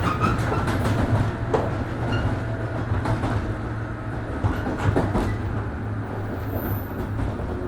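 Interior running sound of a 103 series 1500 subseries electric train on the move: a steady low rumble of wheels and running gear, with a few clicks of wheels passing over rail joints.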